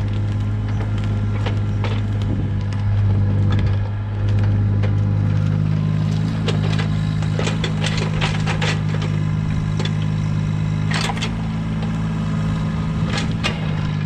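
An engine running steadily, with scattered knocks and clatters over it, the sharpest ones clustered in the middle and near the end.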